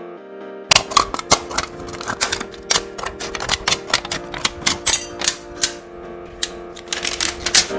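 Many sharp, irregular clicks and taps, several a second, over background music.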